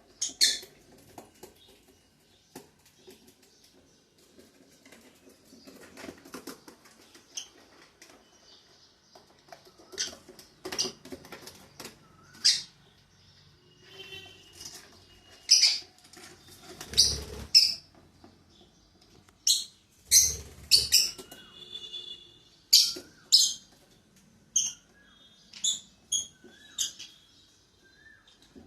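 Pet lovebirds giving short, shrill chirps at irregular intervals, several in quick pairs or runs, with quieter rustling and wing flutters between calls.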